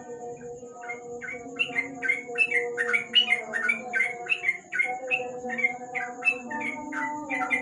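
A bulbul (trucuk) calling in a rapid run of short, sharp chirps, about three a second, starting about a second in. Steady background tones run beneath.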